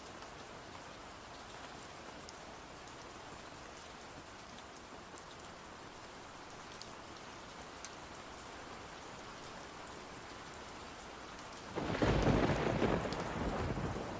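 Steady rain falling, an even hiss with scattered faint ticks. About twelve seconds in, a loud clap of thunder breaks in and rumbles on.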